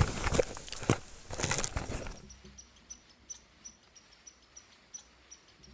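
Handling knocks and rustles for about two seconds, then a thin, high chirp repeating about two or three times a second from a small animal in the forest.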